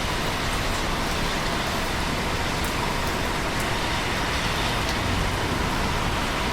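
Steady rain: a dense, even hiss with a few faint separate drop ticks.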